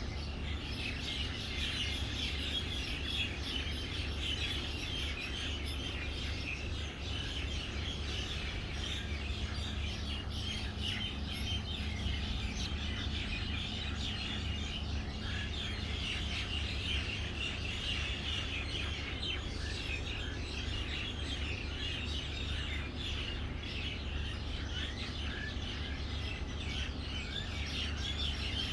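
Many small birds chirping at once in a dense, continuous morning chorus of short overlapping high chirps, over a steady low hum.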